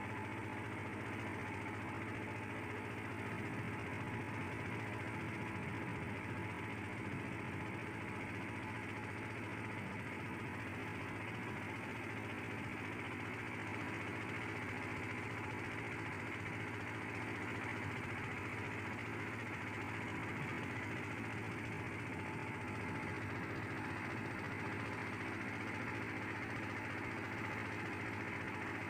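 Boat engine running steadily, an even drone that holds the same speed and level throughout.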